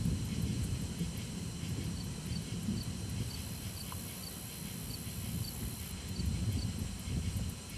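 Low, rolling rumble of distant thunder that swells and fades, louder near the start and again near the end, with no sharp crack. Faint high chirps repeat two or three times a second through the middle.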